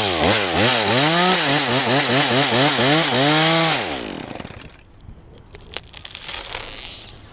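Chainsaw cutting a pine, its engine pitch rising and falling about three times a second as it works under load, then winding down about four seconds in. Scattered sharp cracks and knocks follow.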